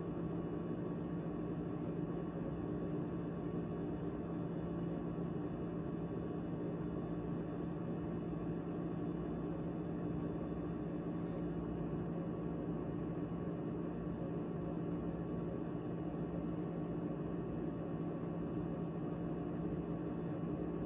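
GE GTH18XCTZRBB refrigerator running after its heat mode: a steady hum with a few fixed tones that holds level throughout.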